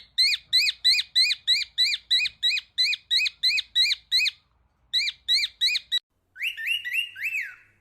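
Cockatiel giving a rapid series of short, rising-and-falling chirps, about four a second, breaking off briefly before three more. After a sudden cut, four lower, sliding whistled notes follow near the end.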